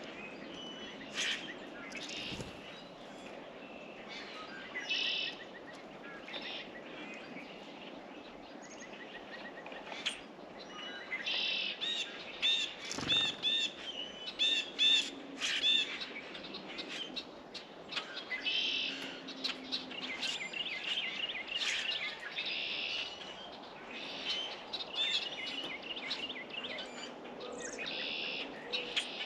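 Small songbirds chirping and calling, with quick runs of repeated notes in the middle, and two faint low thumps.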